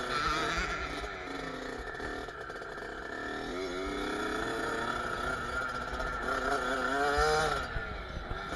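Kawasaki KX65 single-cylinder two-stroke dirt bike engine revving, its pitch rising and falling, climbing highest about seven seconds in before easing off.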